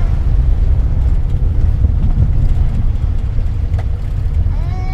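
Daihatsu Hijet 1000 engine and road noise heard from inside the cab while driving slowly: a steady low rumble.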